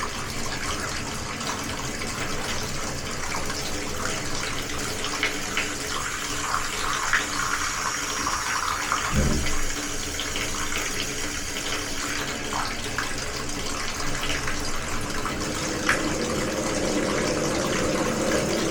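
Water running steadily from a tap, with one short knock about nine seconds in.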